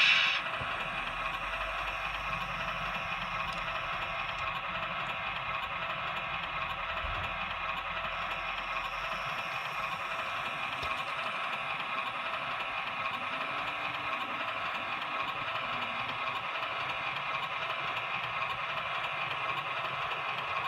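OO gauge model locomotive running on the layout: a steady mechanical hum with light clatter, after a brief louder sound right at the start.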